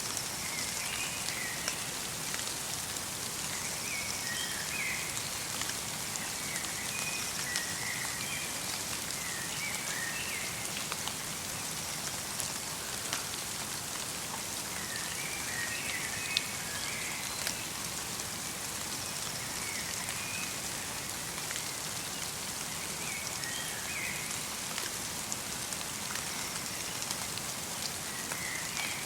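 Light rain mixed with falling snow pattering steadily in a forest, with many fine drop ticks. Small birds give short twittering calls every few seconds.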